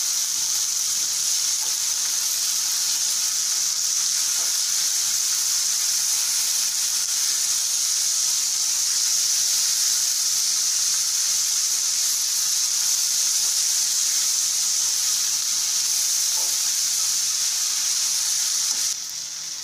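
Cluster beans sizzling steadily in hot oil in a kadai as they are stir-fried, a continuous high hiss that drops in level near the end.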